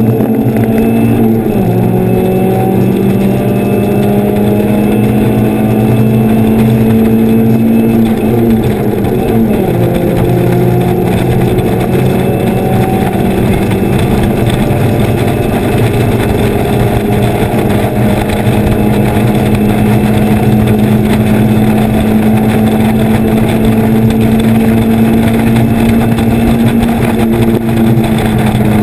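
Mazda Miata's four-cylinder engine running hard on track, heard from inside the open cockpit. The engine note drops about a second and a half in and again about nine seconds in, then holds nearly steady and slowly climbs.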